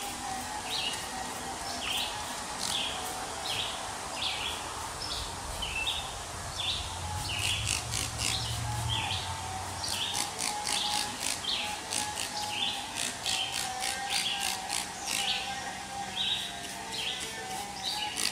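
A bird chirping over and over, short high chirps at about two a second, in an even run.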